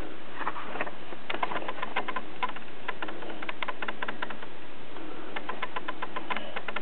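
Light, irregular clicks and taps of a paper booklet being handled and shifted in the hands, over a steady background hiss.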